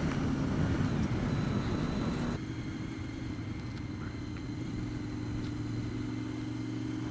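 Honda VFR750's V4 engine running with riding noise. About two and a half seconds in, the noise drops off suddenly, leaving the engine at a steady low note like an idle.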